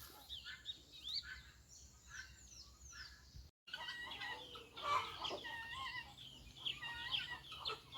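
A flock of free-ranging chickens clucking and calling: many short calls overlapping, with a brief break in the sound about three and a half seconds in.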